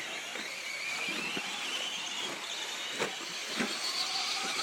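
Electric motors of radio-controlled short-course trucks whining as they race, the pitch rising and falling with the throttle, with a couple of short knocks about three seconds in.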